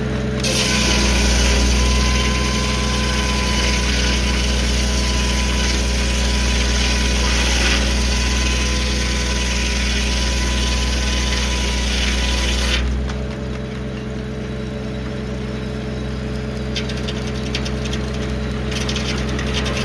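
Circular sawmill blade cutting through a log for about twelve seconds over the steady running of a 1952 Farmall H's four-cylinder engine, which belt-drives the mill. The cutting noise stops suddenly and the engine runs on alone.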